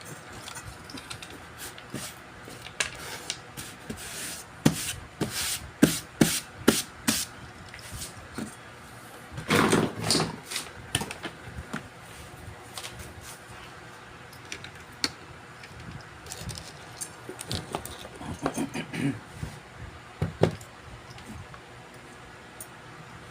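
Handling noises at a repair bench. A quick run of sharp clicks and taps is followed about ten seconds in by a short louder rustling burst, then scattered softer knocks and rubbing.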